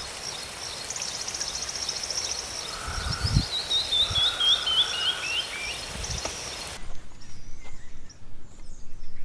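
Small birds singing and chirping: quick repeated high chirps, a trill, and a run of clear notes stepping down in pitch about halfway through. After a sudden change in the sound at about seven seconds, sparser bird calls continue.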